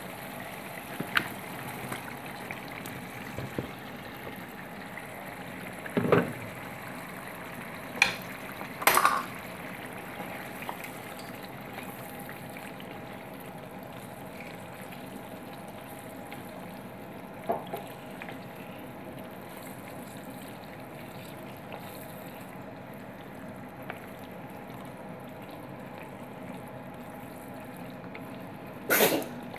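Chicken pieces sizzling in a pan of onion masala, a steady frying hiss, while a wooden spatula stirs them, knocking and scraping against the pan about five times, loudest near the end.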